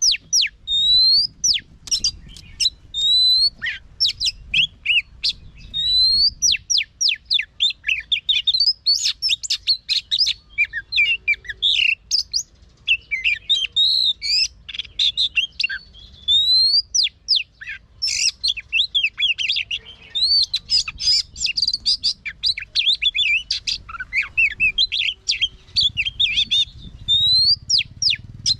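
Oriental magpie-robin singing. It opens with a string of rising whistled notes about once a second, then breaks into fast, varied phrases of quick sweeping whistles and trills.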